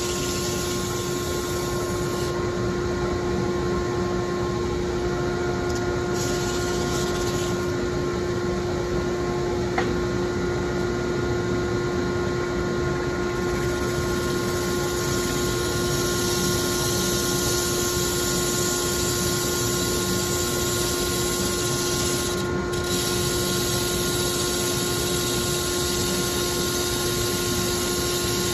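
Small electric motor running steadily with a constant hum, with a single faint click about ten seconds in.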